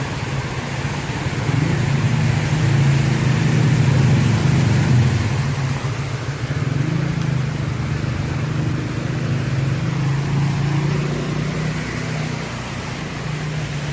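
A motor vehicle's engine running close by with a steady low hum that swells for a few seconds near the start, then holds steady, over a hiss of background noise.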